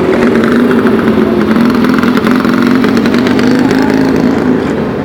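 Motorcycle engine running steadily at around idle, a little quieter near the end.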